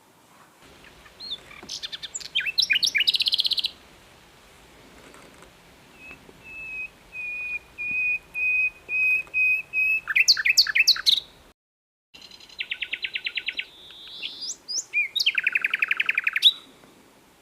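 Common nightingale singing in separate phrases: fast slurred notes running into rattling trills, and a slow series of about eight repeated piping notes that swells in volume before a quick run of notes. The sound drops out completely for a moment about two-thirds of the way through.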